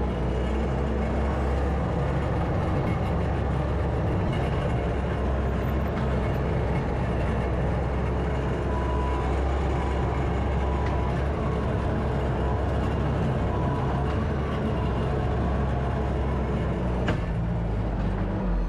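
Bobcat T450 skid steer track loader's 61 hp diesel engine running steadily.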